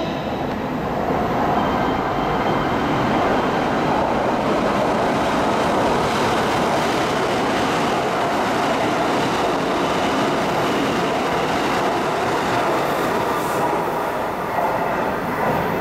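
Electric commuter train running through a station at speed without stopping: a steady, loud rumble of wheels on rails.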